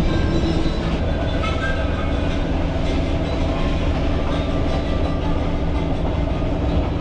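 Steady running noise of a PeruRail passenger train heard from inside the carriage: a low rumble of wheels on track with a constant hum and occasional faint clicks.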